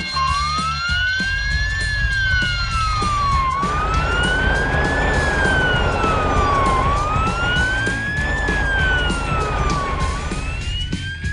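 Wailing emergency-vehicle siren rising and falling slowly, about once every three seconds, over background music with a steady beat.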